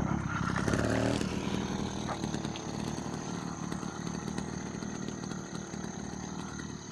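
Small motorbike engine revving hard in the first second, then running steadily and slowly getting quieter.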